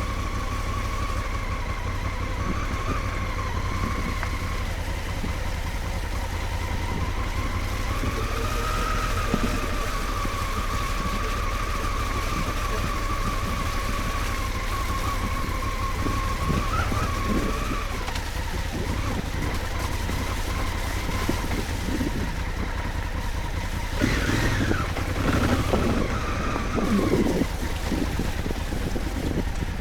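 Adventure motorcycle engine running steadily as it rides along a trail, its pitch drifting gently up and down. A few seconds of louder knocks and clatter come near the end.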